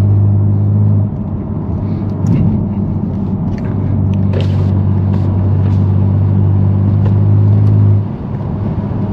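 BMW S55 twin-turbo inline-six in an F80 M3 Competition with a straight-piped exhaust, droning at steady revs while driving. The drone eases off about a second in, comes back strongly about four seconds in, and eases off again near the end.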